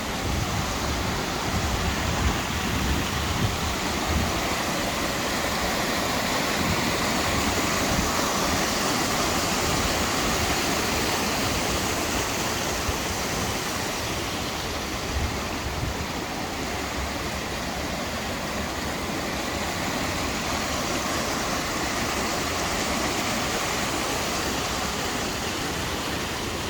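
Rushing water of a waterfall and its stream, a steady, even hiss of falling and tumbling water.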